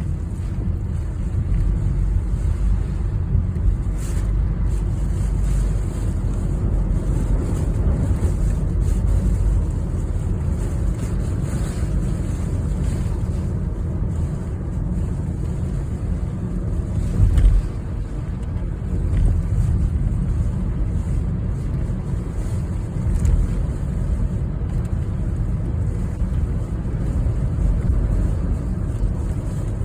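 Typhoon wind and road noise from a vehicle travelling through the storm: a steady, deep rumble with no distinct tones, swelling briefly louder with a gust about seventeen seconds in.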